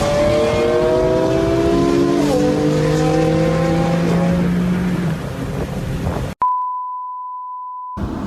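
BMW F80 M3's twin-turbo straight-six pulling hard, its pitch climbing, with an upshift about two seconds in, then the pull fades. A steady high beep tone sounds for about a second and a half near the end.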